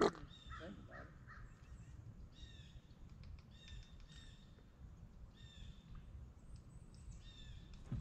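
Birds calling faintly: a string of short calls, often in quick pairs or threes, about every second. There is a brief sharp knock at the very start.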